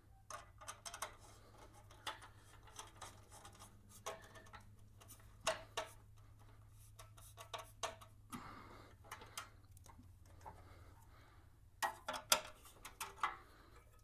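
Light, irregular metallic clicks and ticks of hand tools and a bolt being screwed in by hand, with a few louder taps, over a faint steady low hum.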